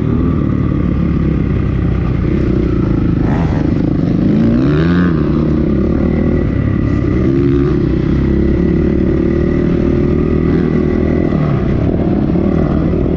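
2008 Honda CRF450R's single-cylinder four-stroke engine running under load, its pitch rising and falling as the throttle is worked, heard from the rider's helmet.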